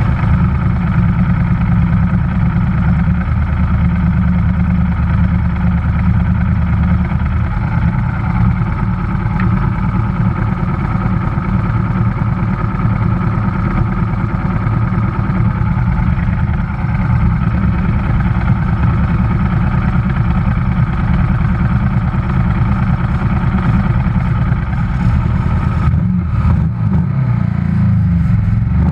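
Classic racing motorcycle engine idling on the starting grid, picked up close by a camera on the bike itself, with other race bikes running around it. A few seconds before the end the sound turns rougher and more uneven as the start nears.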